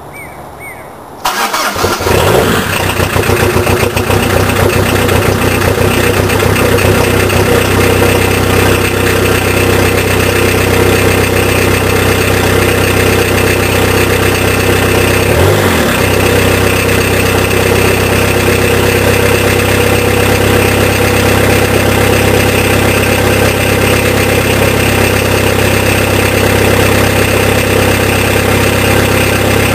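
Peugeot 306 DT turbo diesel with a straight-through exhaust cold-starting: it cranks and catches about a second in, runs rough for a moment, then settles into a loud, steady diesel idle. About halfway through the note changes briefly.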